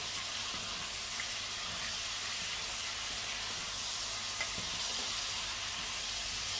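Pork frying with a steady sizzle in a heavy black pot while a wooden spoon stirs it, with a few light knocks of the spoon against the pot.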